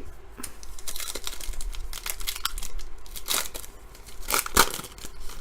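Crinkly wrapper of a trading card pack being torn open and handled, an irregular run of rustles and crackles with the sharpest ones a little past halfway.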